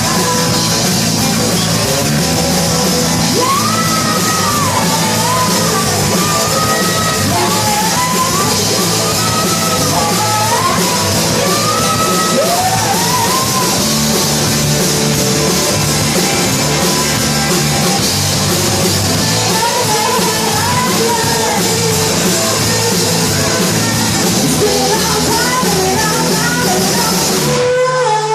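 Rock and roll band playing live and loud, with drum kit and a wavering melody line over the backing. Just before the end the sound changes abruptly to a thinner passage.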